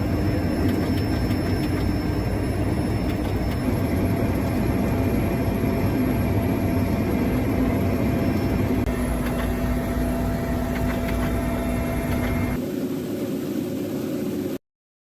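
A heavy engine running steadily and loudly, with a constant high whine over dense rumbling noise. Near the end the sound shifts abruptly and drops a little, then cuts off.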